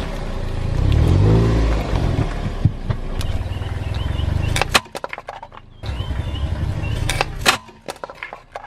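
Car engine running low as a tyre rolls over objects and crushes them, with sharp cracking and snapping about halfway through and again near the end.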